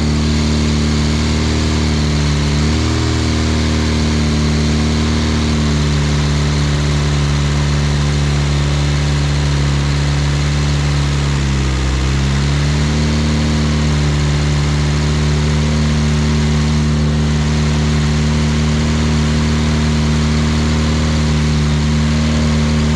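Freshly rebuilt Classic Mini 1380 A-series four-cylinder engine running steadily on a test stand, being run in to bed in the new camshaft. Its speed dips briefly twice, about three seconds in and again about twelve seconds in, and then recovers.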